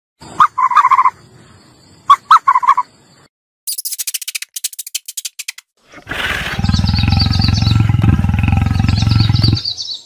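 A lion's deep, pulsing growl lasting about three and a half seconds, starting about six seconds in, with birds chirping behind it. Before it come two short, pitched animal calls and then a run of rapid clicks.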